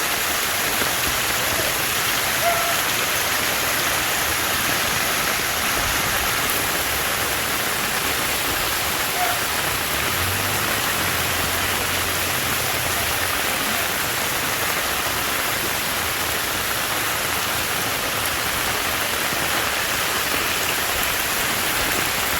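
Heavy tropical-storm rain falling steadily, an even hiss with no let-up.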